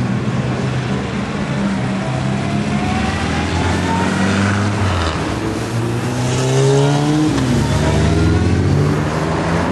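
Engines of several classic cars driving past one after another, their pitch rising as they pull away, with a motorcycle passing close and loudest about seven to eight seconds in.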